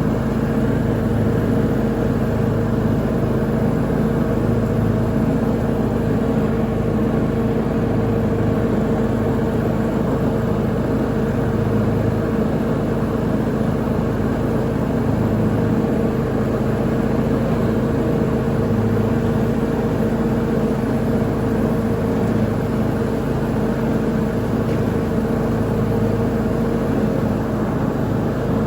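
Lawn mower engine running steadily under mowing load, a constant drone with a low pulsing throb.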